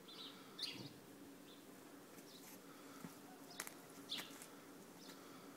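Quiet outdoor ambience: a few faint bird chirps over a low steady hum, with a couple of light clicks about three and a half seconds in.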